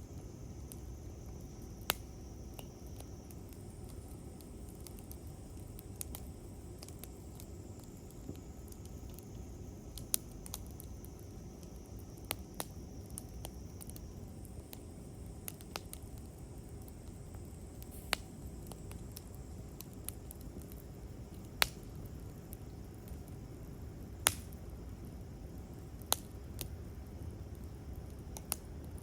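Campfire wood crackling: irregular sharp pops and snaps, a few louder ones in the second half, over a low steady rumble.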